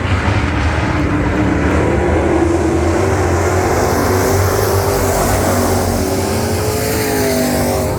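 Engines of several dirt-track race trucks running at racing speed, their pitches rising and falling as they rev through the laps.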